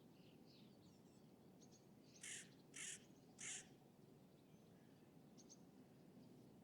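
A crow cawing three times, about half a second apart, over a steady low distant city rumble and faint chirps of small birds.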